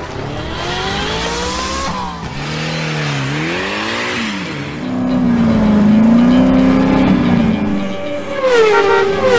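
Race car engine sound effect revving up and down, laid over toy cars being pushed along a track: the pitch climbs over the first couple of seconds, then wavers up and down, with a louder falling glide near the end.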